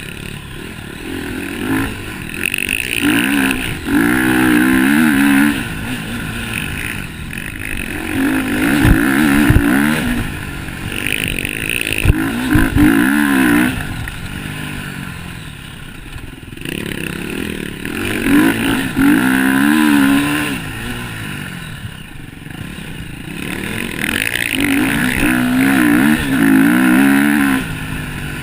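Motocross bikes racing: engines revving up and down as they come past in waves every few seconds, pitch climbing and dropping with throttle and gear changes.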